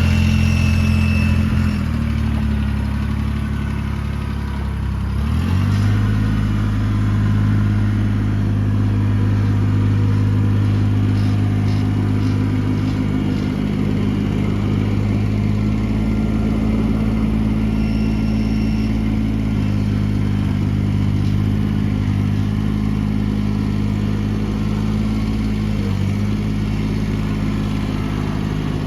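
Kubota BX2380's 23 hp three-cylinder diesel engine running. Its speed drops about two seconds in, comes back up a few seconds later, then holds steady with a brief dip near the end.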